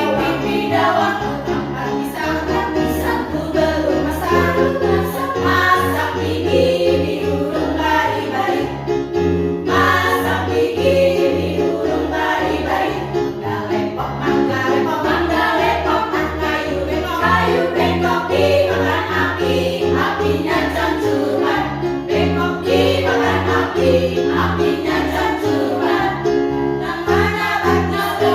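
A choir singing over instrumental accompaniment with steady, sustained bass notes.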